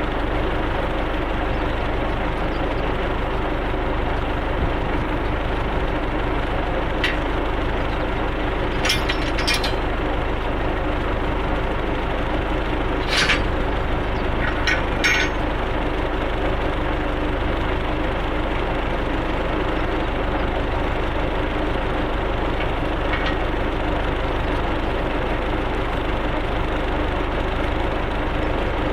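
Tractor engine running steadily under a constant load. A few short sharp knocks or clatters stand out between about 7 and 15 seconds in.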